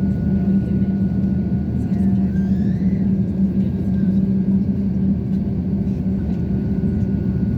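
Steady low rumble of an Airbus A350-900 heard inside the passenger cabin: engine and airflow noise, with a thin steady whine above it.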